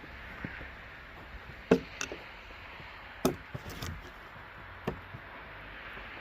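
About six scattered sharp wooden knocks and thuds over a steady background hiss, the loudest a little under two seconds in.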